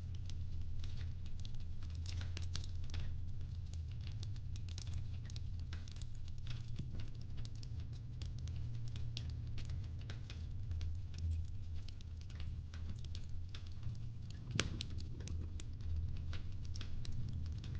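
Fireplace crackling: a steady low rumble of the fire under many small irregular pops and crackles, with one louder pop near the end.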